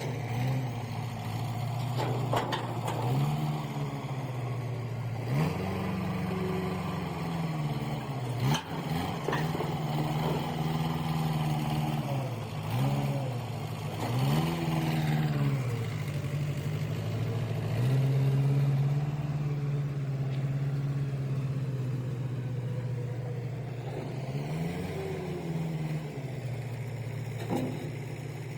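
A vehicle engine running under load, its pitch rising and falling several times as it is revved and eased off. A few sharp clanks come through over the engine.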